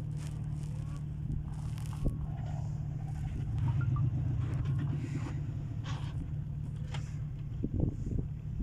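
An engine running steadily with a low drone that swells slightly about halfway through, with a few faint knocks and scrapes over it.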